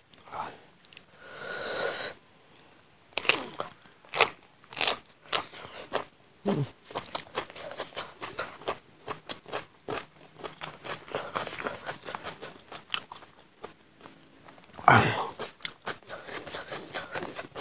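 Close-miked chewing and crunching of chicken curry and rice eaten by hand, as many short wet mouth clicks and smacks, with a louder mouth noise about fifteen seconds in.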